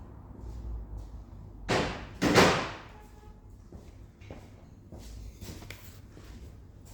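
Two loud clattering knocks about two seconds in, the second the louder, then lighter knocks and taps: metal tools and parts being handled in a car's engine bay.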